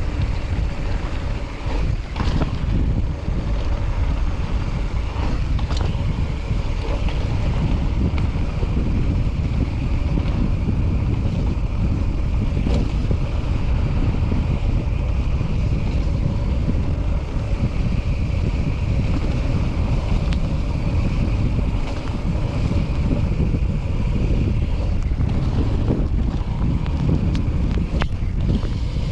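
Wind buffeting the microphone of a camera riding on a mountain bike going downhill on a dirt trail, a steady low rumble with scattered clicks.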